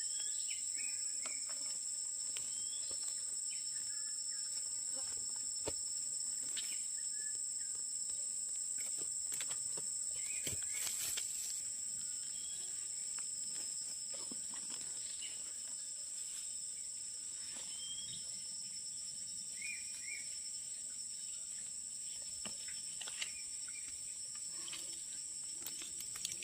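Steady high-pitched drone of insects, such as crickets or cicadas, running on without a break. Faint short chirps and scattered light ticks come and go over it.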